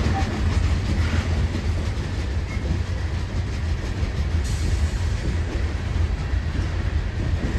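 Union Pacific coal train's freight cars rolling past, a steady low noise of steel wheels running on the rails.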